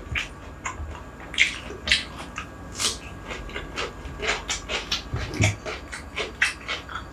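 Close-miked chewing and mouth sounds: irregular wet clicks and smacks, several a second, as a man eats rice.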